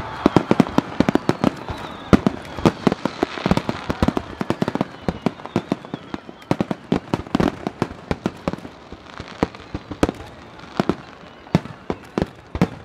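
Starmine fireworks barrage: aerial shells and water-surface fan bursts going off in quick succession as a continuous stream of sharp bangs, several a second, some louder than others.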